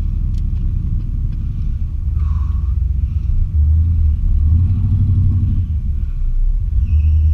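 Chevy 350 V8 in an '86 K20 pickup running with a rumble, heard from inside the cab, getting louder a couple of seconds in as the truck pulls away. Near the end a short high squeal from the truck's squeaky belt.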